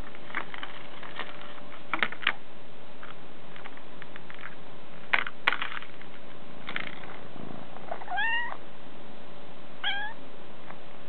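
Bengal kitten meowing twice near the end, the first meow rising in pitch and a little longer than the second. Before the meows, a few light clicks and taps.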